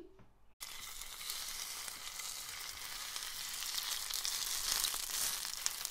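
Chopped vegetables and capsicum sizzling in oil in a frying pan as they are stirred with a wooden spatula. The sizzle starts suddenly about half a second in and runs on steadily, with faint scrapes and clicks.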